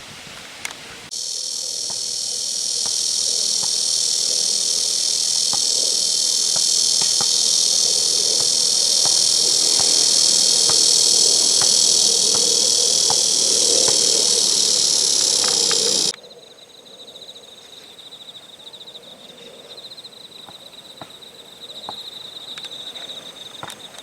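Loud chorus of insects buzzing on many high, steady notes, which starts suddenly about a second in and cuts off abruptly after about fifteen seconds. A fainter single high insect trill with a fast pulsing follows.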